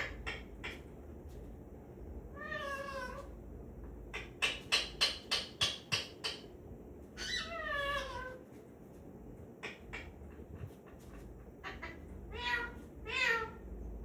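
Indian ringneck parrot mimicking a cat's meow: about four drawn-out meow calls that waver and fall in pitch, with a quick run of about eight short, sharp calls in the middle.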